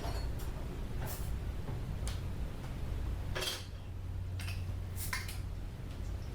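Horror game sound: a steady low hum with a few scattered light clinks and clicks.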